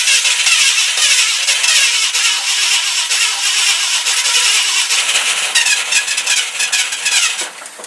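1971 Ford F-100's engine cranking and firing with the gas pedal floored, in a start attempt after 15 years of sitting. It stops abruptly near the end.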